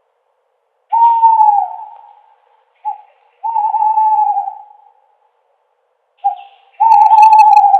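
Owl hooting: one long hoot about a second in that drops in pitch at its end, then two pairs of a short hoot followed by a longer, steady hoot. The calls are separated by silence.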